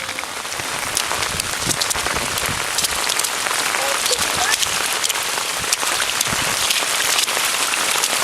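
Heavy rain pouring down: a steady hiss dotted with many sharp ticks of drops striking close by.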